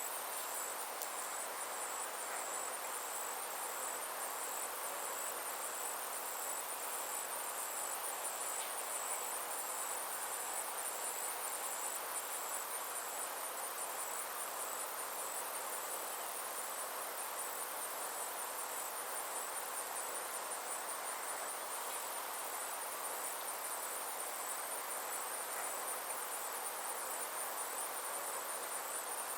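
Insects trilling steadily in a high, rapidly pulsing chorus, over a soft, even outdoor hiss.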